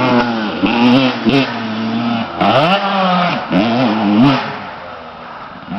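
Dirt bike engine revving up and down as the throttle is worked, its pitch dipping and climbing several times, then easing off and getting quieter near the end.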